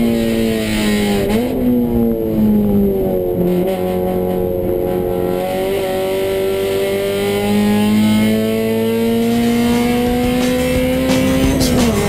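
Honda GSR four-cylinder DOHC VTEC engine in a 1995 Civic coupe, heard from inside the stripped cabin while lapping a track. It runs at high revs with a quick dip about a second in, then the revs fall and stay lower for a few seconds. From about seven seconds in they climb steadily, with a sharp dip and recovery near the end.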